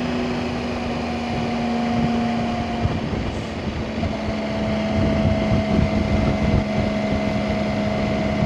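Motorcycle engine running at a steady speed with wind buffeting the microphone; the engine note drops slightly about three seconds in.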